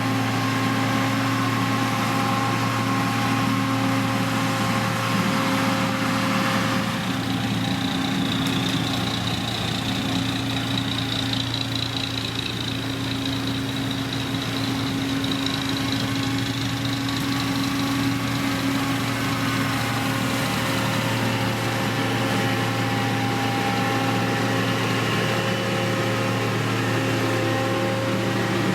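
Diesel engine of heavy road-construction machinery running steadily, with a faint high whine in the middle.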